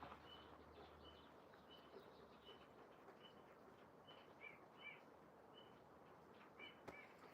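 Faint bird chirping: a short high note repeated roughly every two-thirds of a second, with a few two-note calls in the second half, over a very quiet background.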